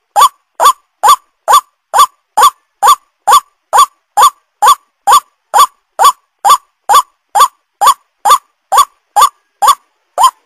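White-breasted waterhen call, a short rising note repeated evenly about twice a second with dead silence between notes. It is a looped lure recording.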